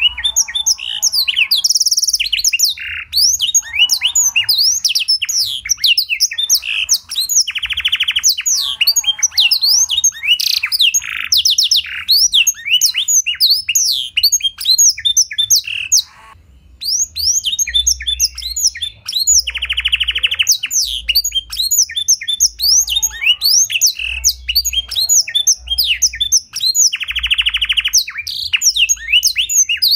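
Domestic canary with a blackthroat-style song singing continuously. It is a fast run of chirps and sweeping notes, broken by three long buzzing rolls.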